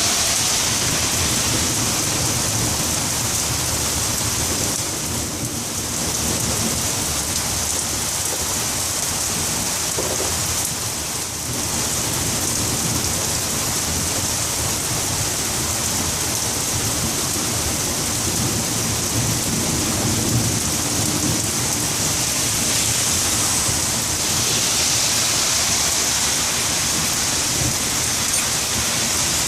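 Heavy rain falling steadily as a constant hiss, with low rolling rumbles of thunder underneath that swell about two-thirds of the way through.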